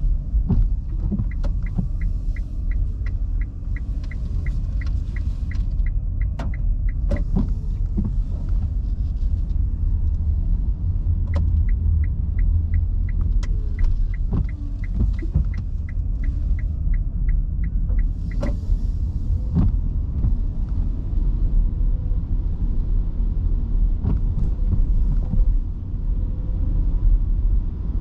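Cabin sound of an electric car driving on wet roads in heavy rain: a steady low road and tyre rumble with a faint hiss of rain. The turn-signal indicator ticks evenly, a few clicks a second, in two spells: one starting about a second in and one in the middle, with a few single knocks besides.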